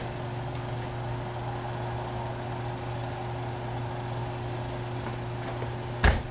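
A steady low hum with a faint higher tone over it, then one sharp knock near the end.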